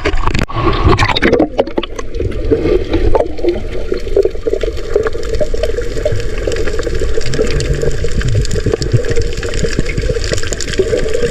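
Sea water splashing and gurgling around the camera while snorkelling: sharp splashes in the first second or two, then a steady, muffled water rumble.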